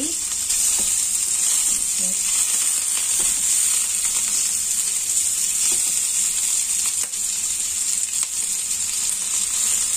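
Chunks of roast pork belly frying with garlic and ginger in a nonstick pan: a steady sizzle as they crisp, with a few light taps and scrapes of a silicone spatula stirring them.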